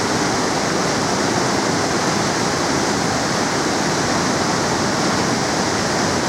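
Iguazu Falls: a large waterfall's loud, steady rush of water pouring into the gorge, unbroken throughout.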